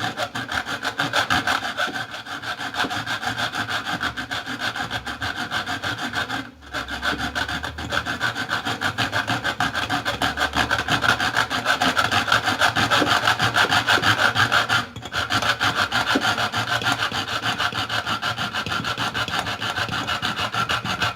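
Hacksaw cutting through a refrigerator's metal refrigerant pipe at the compressor: fast, even back-and-forth rasping strokes, stopping briefly twice.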